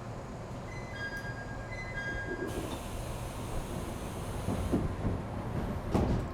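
Inside an ET127 series electric train stopped at a station, ready to depart: a short electronic chime, then a hiss of released air and a few heavy thuds, the loudest near the end, over a low steady rumble.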